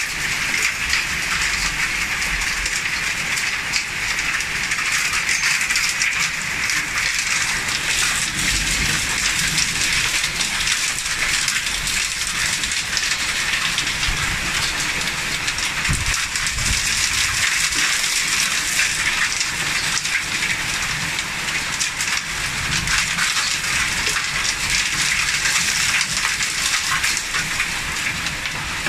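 Heavy thunderstorm downpour with hail: a dense, steady rush of rain and hailstones pattering on surfaces, full of small sharp impacts.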